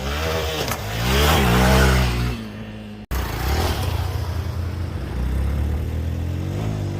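Hero Xpulse 200 single-cylinder engine revving hard, its pitch climbing and falling. After a sudden cut about three seconds in, it runs on again, with another rev rising near the end.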